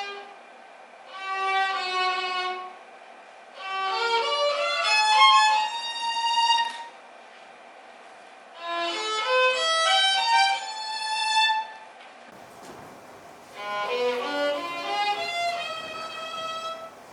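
Solo violin playing short melodic phrases, some with quick rising runs of notes, separated by pauses of about a second.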